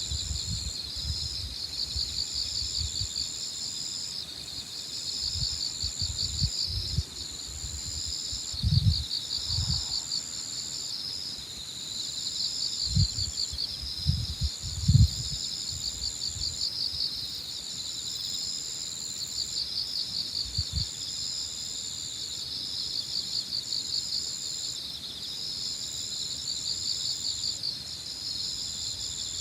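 Early-autumn evening chorus of crickets and other insects, steady throughout: a fast pulsing chirr with a higher continuous trill above it that breaks off every couple of seconds. Gusts of wind buffet the microphone now and then, mostly in the first two-thirds.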